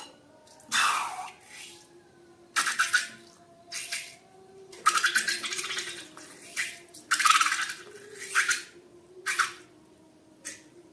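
Slime being squished and worked by hand: a string of short wet squelching bursts, about eight in the space of ten seconds, with short quiet gaps between them.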